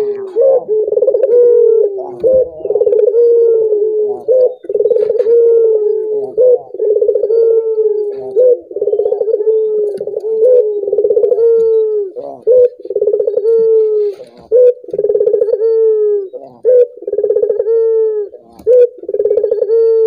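Male Barbary dove (burung puter) cooing over and over, low rolling coos strung into phrases with brief pauses between them.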